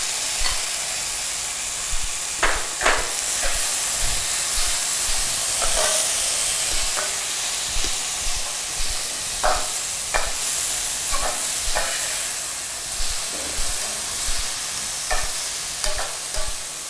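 Goat meat, onions and freshly added tomato slices frying in oil in a metal pan, giving a steady sizzle. A metal spoon stirs them, with scattered scrapes and clicks against the pan.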